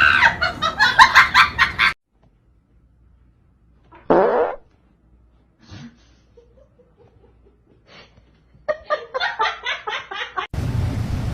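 People laughing in quick pulses, then a lull broken by one short sound that rises steeply in pitch, about four seconds in. The laughter comes back near the end, and a steady low hum takes over at the very end.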